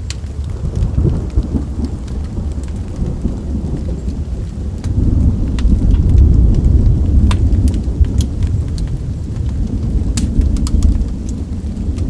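Rolling thunder over steady rain: a low rumble swells about a second in and grows loudest from about five seconds in. Sharp, scattered pops of a crackling wood fire sound over it.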